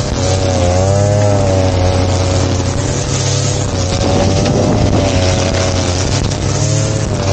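Grass-cutting machine (brush cutter) engine running at high speed, its pitch sagging and recovering about a second in and again near the end as the cutter takes load in the grass.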